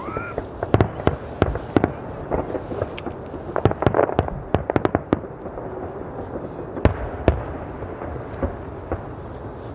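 Fireworks display: a rapid run of bursts and crackling pops, densest about four seconds in and thinning out in the second half.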